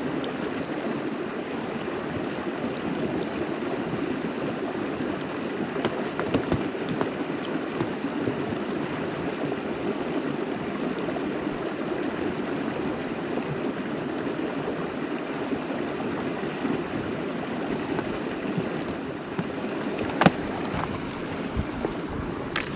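Mountain stream flowing in a steady rush, with a few faint scattered clicks and one sharper click near the end.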